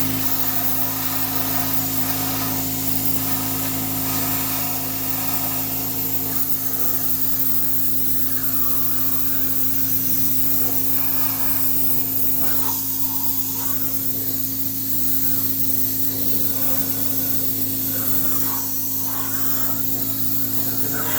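Compressed-air blowgun hissing steadily as it blows coolant out of the open cylinders of a 5.3-liter V8 with the head removed, over a steady low hum.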